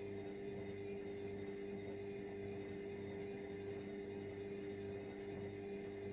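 Indesit washing machine running a bleach cleaning cycle: a steady hum with a low throb that pulses about twice a second.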